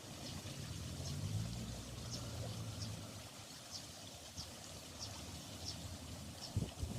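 Fountain water splashing and pouring steadily, with short high chirps repeating over it. A low hum swells about a second in and fades again by about three seconds, and a couple of dull thumps come near the end.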